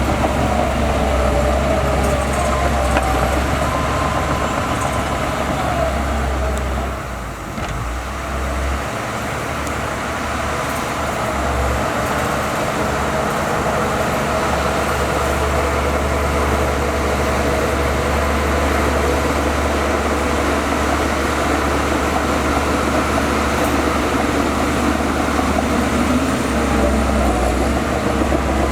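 Bulldozer's diesel engine running steadily under work, easing off briefly about seven seconds in before building back up.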